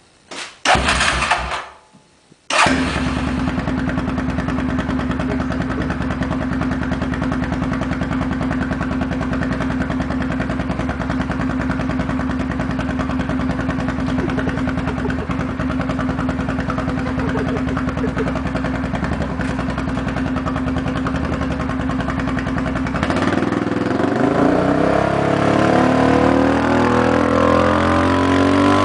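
Yamaha Grizzly 450 ATV's single-cylinder four-stroke engine through an aftermarket FMF exhaust. After a brief burst and a short pause, it starts and idles steadily, then is revved up and down repeatedly over the last several seconds.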